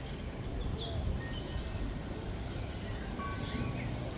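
Aviary ambience: scattered short bird whistles and chirps, a few rising or falling, over a steady high insect-like drone and a low rumble.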